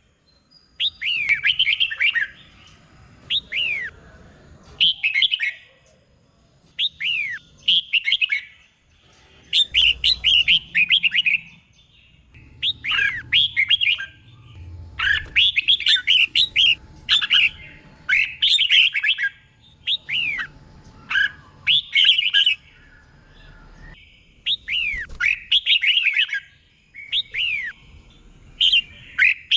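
Red-whiskered bulbul singing: short, lively phrases of quick down-slurred whistled notes, repeated every second or two with brief pauses between them.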